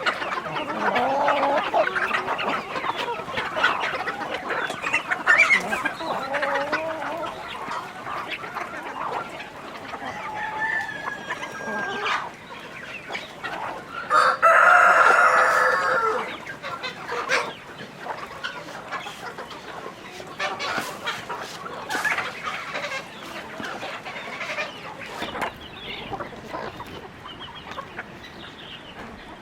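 A flock of chickens clucking steadily, with a rooster crowing once about halfway through, the loudest sound here.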